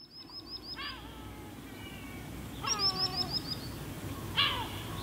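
Birds calling over a steady low background noise. Two quick runs of about five high, falling chirps, one right at the start and one a little under three seconds in, are mixed with several longer, lower calls that slide downward in pitch.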